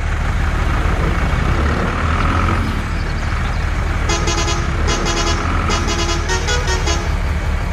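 Truck engine rumbling, with a run of short horn toots from about four seconds in until near the end.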